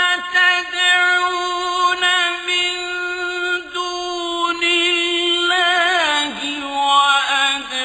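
A man's voice chanting Quran recitation in the melodic mujawwad style, holding long sustained notes. Around the middle it breaks into wavering ornamented runs and steps down to a lower pitch.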